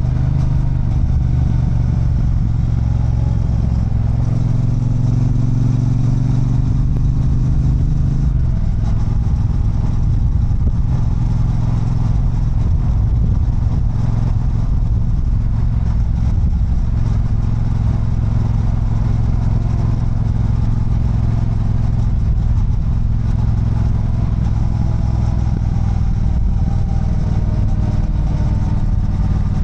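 Triumph Bonneville Bobber's 1200 cc parallel-twin engine running steadily under way. Its pitch climbs a little a few seconds in, drops suddenly about eight seconds in, then holds steady.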